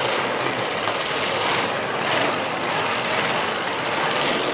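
Demolition derby cars' engines running together in a steady, loud din, with a few brief swells.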